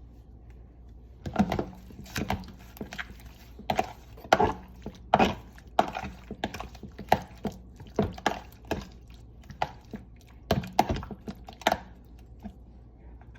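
Kitchen utensils knocking and clacking in an irregular string, roughly one or two knocks a second, starting about a second in.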